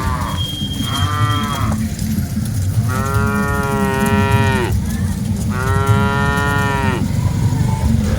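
Cattle mooing: three calls, a short one followed by two longer, drawn-out moos that dip in pitch at the end. A steady low rumble runs underneath.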